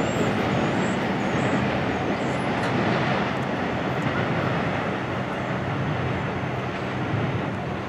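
Double-stack intermodal container cars of a freight train rolling along the rails, a steady rumble slowly fading as the end of the train moves away.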